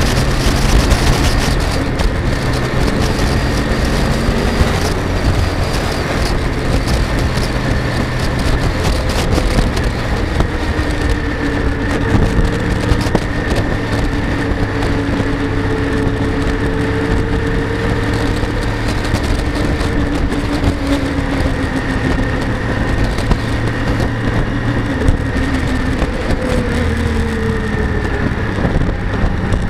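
Kawasaki W650 parallel-twin engine running at a steady cruise on the move, with wind noise over the microphone. The engine pitch drops near the end as the bike slows.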